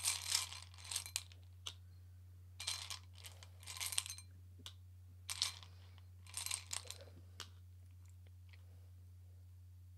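Tarot cards being shuffled and handled: four bursts of papery rustling and flicking with a few light clicks of cards laid down.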